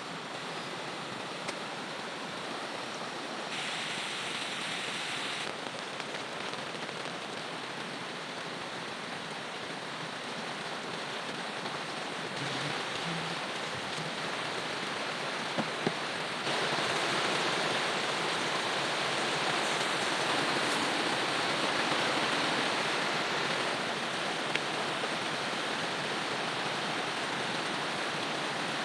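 Steady rushing of a swollen river in flood, mixed with heavy rain. The level jumps abruptly a few times, and it is loudest from about halfway through.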